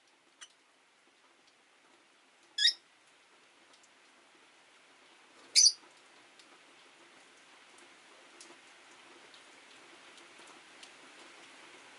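Two short, sharp chirps from rosy-faced lovebirds, about three seconds apart, over a faint hiss of rain that grows louder toward the end.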